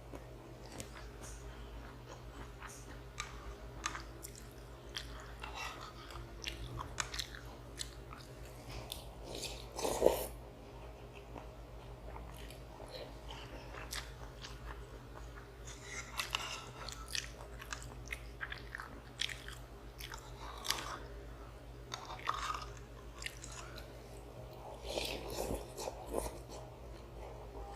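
A person eating instant noodles and rice close to the microphone: wet chewing with many small clicking mouth sounds, and one louder noise about ten seconds in.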